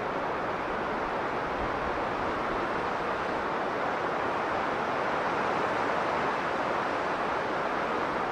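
Strong blizzard wind blowing steadily: a continuous, even rushing noise with no gusts or breaks.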